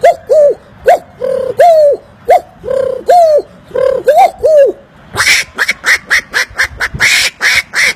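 A man imitating animal calls with his mouth: first a string of short, arched, whistle-like calls, about three a second, then from about five seconds in a faster run of harsh, clipped calls.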